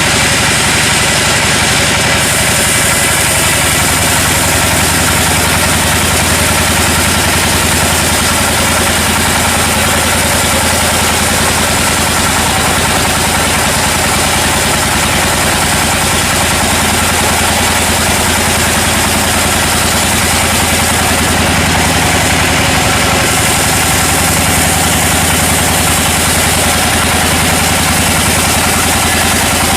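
Sawmill machinery running steadily: a continuous engine drone under a dense, high-pitched whirr of cutting noise, unchanging in level.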